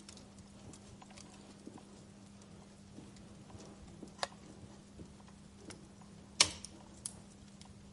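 Fire crackling: irregular small pops and snaps over a faint hiss, with one sharp, loud pop about six and a half seconds in and a smaller one a little after four seconds. A steady low hum runs underneath.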